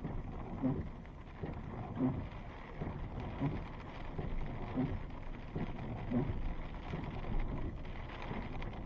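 Windshield wipers sweeping in a regular beat, about one stroke every second and a half, over a steady wash of rain and wind.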